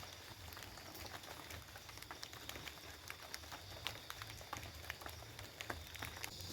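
Light drizzle falling, a faint scatter of irregular small ticks of raindrops over a low steady hum.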